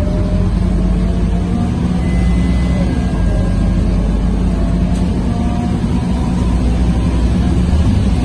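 Scania K230UB city bus's five-cylinder diesel engine pulling hard under full throttle, its pitch climbing and then dropping back at each automatic gear change.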